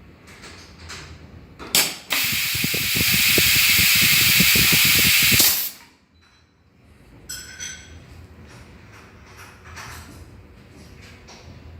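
Semi-automatic perfume bottle valve crimping machine cycling: a sharp click, then about three and a half seconds of loud air hiss with a rapid low rattle under it, cutting off suddenly. A few faint clicks follow.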